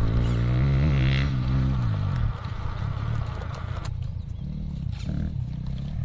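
RGT EX86190 RC crawler's electric motor and gear train whining under load, the pitch wavering as the throttle works. About two seconds in the whine drops away to quieter, rougher drivetrain and tyre noise with a few clicks, and it builds again near the end.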